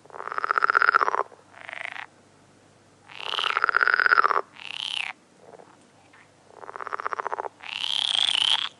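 A series of about six rapidly pulsing animal calls, each half a second to a second and a half long, with lower and higher calls taking turns.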